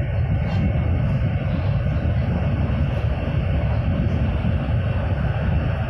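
Steady cabin running noise of an 800 series Shinkansen at speed: a deep rumble with rushing noise over it, which steps up in loudness right at the start.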